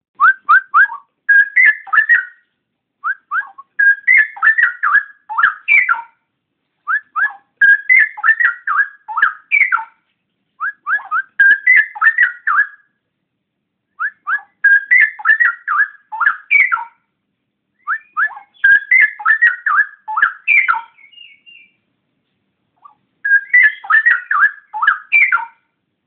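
Straw-headed bulbul (cucak rowo) singing: about seven loud, fast warbling phrases of two to three seconds each, separated by short pauses.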